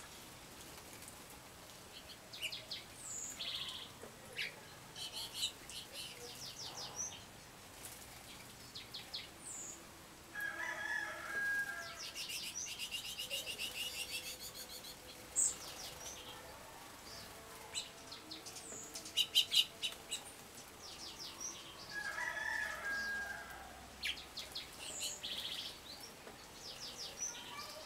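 Several small wild songbirds calling: quick high chirps and rattling trills overlapping throughout, with a lower, longer call twice, about ten seconds in and again about twenty-two seconds in.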